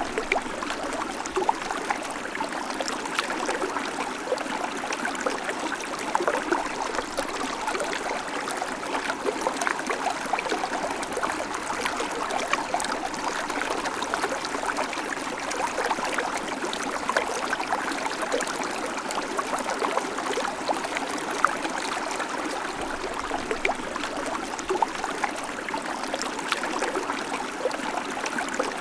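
Babbling creek: water running steadily over stones, a continuous rushing flecked with small splashes and trickles.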